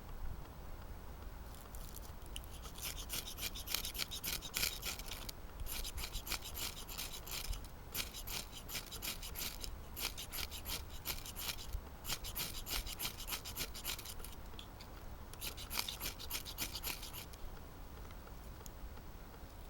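Fire steel (ferrocerium rod) scraped hard with a striker in about six bursts of quick, high-pitched rasping strokes, with short pauses between them. The sparks are being thrown to light a fire on birch bark.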